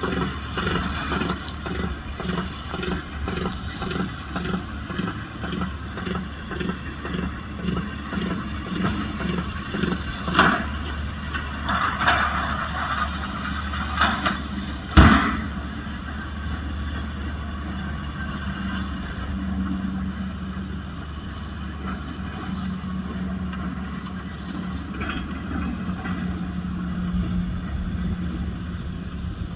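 Kubota M125X diesel tractor running under load while driving a baler, with a regular beat of about one and a half strokes a second through the first half. A sharp knock about halfway, after which the tractor runs on steadily without the beat.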